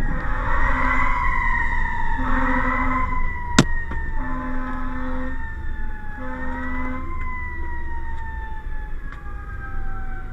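Fire truck siren wailing up and down, then sliding slowly down in pitch, with repeated short low horn blasts over a steady road rumble; a single sharp click about three and a half seconds in.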